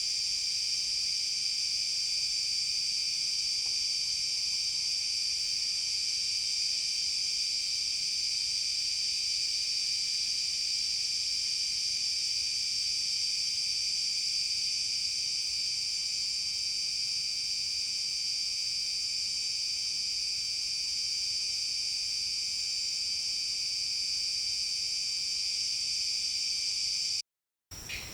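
Insect chorus in forest: a steady, dense, high-pitched drone with no audible beat. About a second before the end it cuts off abruptly, and a different, rapidly pulsing insect call starts.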